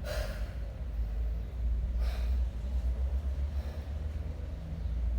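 Sharp, forceful breaths of a person straining through kettlebell long cycle reps, about two seconds apart, over a steady low rumble.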